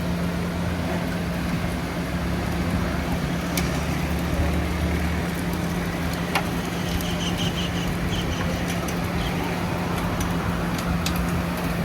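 City street traffic: a steady din of motor vehicles with a constant low engine hum, and a few sharp clicks.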